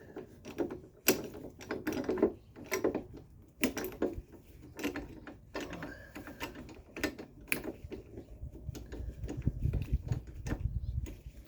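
Metal clanks and clicks of a coil-spring compressor's clamps being fitted onto a strut's coil spring, in irregular sharp knocks, with a low rumble of handling toward the end.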